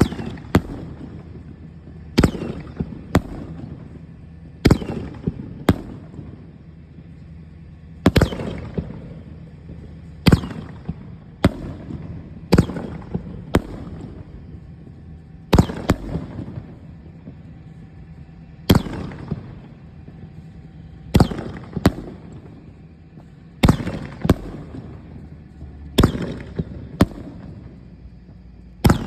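A 36-shot fireworks cake of 3-inch tubes firing shot after shot: sharp bangs about every one to two seconds, many coming in pairs, each trailed by a crackling burst.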